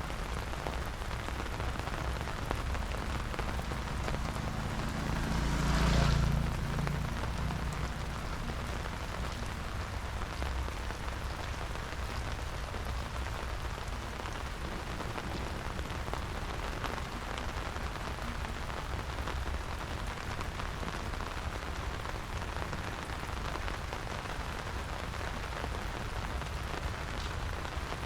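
Steady rain falling, an even hiss. About six seconds in, a louder rush with a low rumble swells and fades over a couple of seconds.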